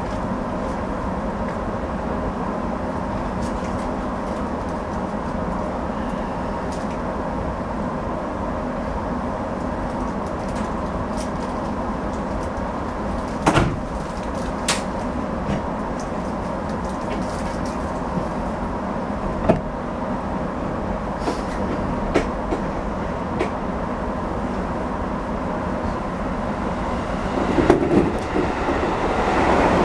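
Steady hum of a stopped 205 series electric train's onboard equipment, with a few sharp clicks. Near the end an oncoming electric train arrives on the next track and passes alongside, its rumble swelling.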